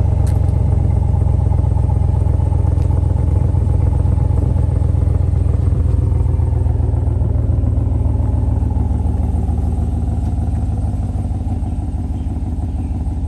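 Chevy Silverado 5.3L V8 idling on a cold start, with a steady deep rumble through a Flowmaster Super 10 muffler. It is not revved, and it eases a little quieter toward the end as the cold-start idle settles down.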